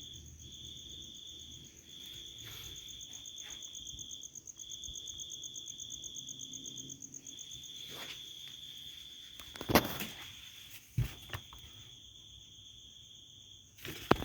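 Crickets chirping in long, even trills that break every couple of seconds, with two sharp clicks about two-thirds of the way through.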